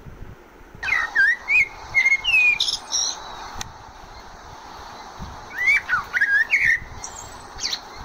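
Common blackbird singing: two phrases of whistled notes that slide up and down, each closing with a few higher, thinner notes.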